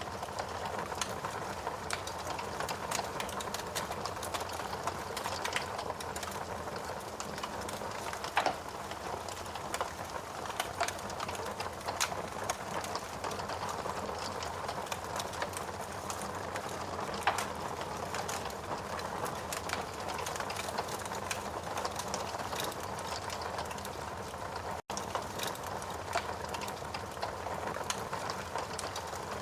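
Steady rain with a wood fire crackling over it: a constant patter and hiss, broken by scattered sharp snaps and pops, a few of them louder than the rest.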